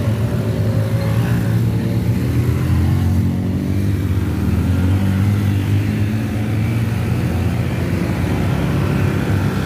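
Motorcycle engine running steadily under throttle, its pitch rising and falling slightly.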